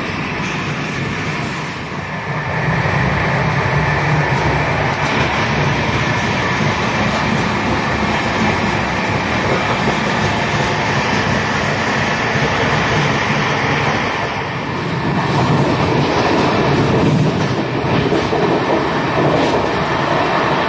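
Running noise of a passenger train moving at speed, its wheels rolling over the rails, heard from aboard. It grows louder about two seconds in and again around fifteen seconds in.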